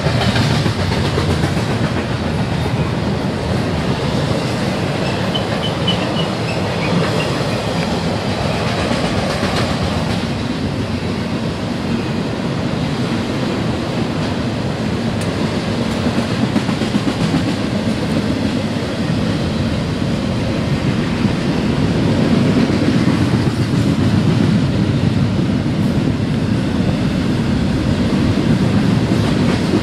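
Double-stack intermodal freight train rolling past: a loud, steady rumble of steel wheels on rail with clickety-clack from the wheels passing over rail joints.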